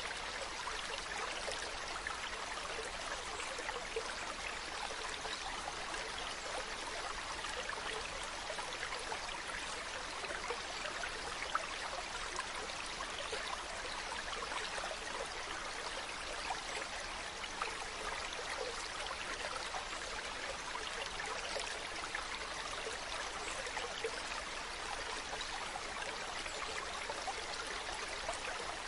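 Mountain stream running steadily over rocks, a constant rushing and trickling of water.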